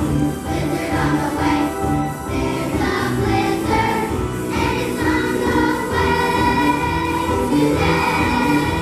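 A group of voices singing in chorus over a musical accompaniment, holding long notes above a repeating low line.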